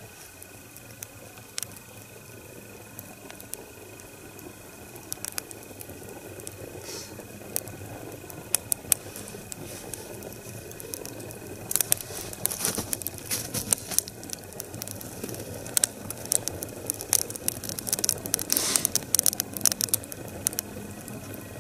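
Wood fire in an upright split log, lit inside the split and catching along its length: sharp crackles and pops that come more and more often from about halfway in, over a low rushing that slowly grows louder.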